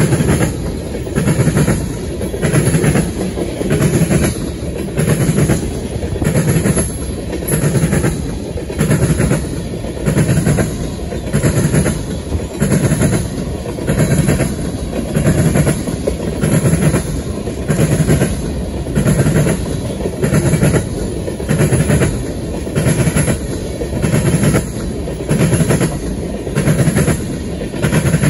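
Freight train of tank cars rolling past, its steel wheels clacking on the track in a regular rhythm of about one beat a second over a steady rumble.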